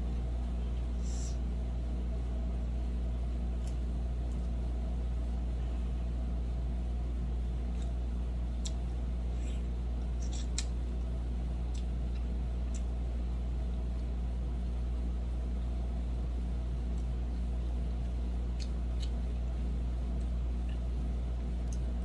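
Steady low hum of a car heard from inside the cabin, with a dozen or so light clicks and rustles scattered through it.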